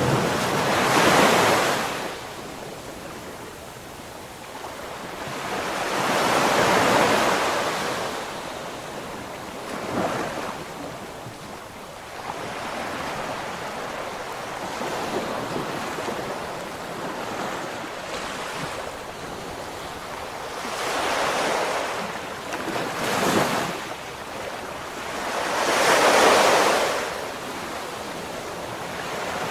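Ocean waves breaking and washing ashore in repeated surges, each rising and falling away over a few seconds, with the loudest breakers about a second in, midway through the first third, and near the end.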